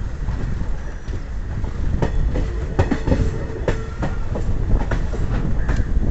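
Express train coaches running on track: a steady low rumble with wheels clacking over rail joints, the clacks starting about two seconds in and coming irregularly.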